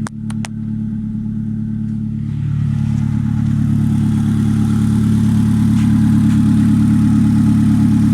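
Honda Fit GD1's 1.3-litre L13A four-cylinder engine running steadily at idle, with a few sharp clicks right at the start and the engine sound growing somewhat louder a few seconds in.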